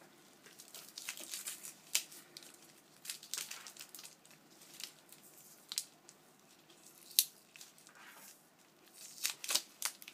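Packaging being cut with scissors and torn open: crinkling and tearing with scattered sharp snips and clicks, the sharpest about seven seconds in.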